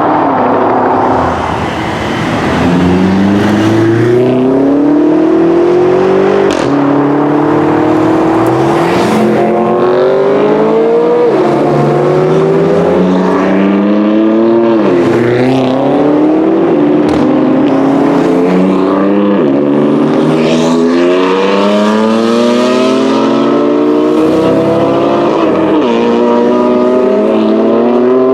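BMW performance car engines accelerating hard, the pitch climbing through each gear and dropping sharply at every upshift, repeated many times over.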